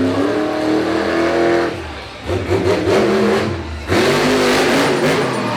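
Stone Crusher monster truck's engine revving hard with the pitch rising and falling, backing off briefly about two seconds in and then coming back on full throttle.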